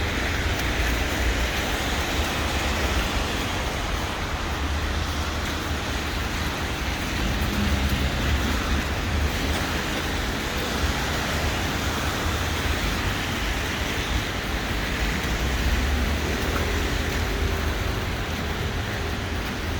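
City street ambience: steady road-traffic noise with a continuous low rumble and hiss.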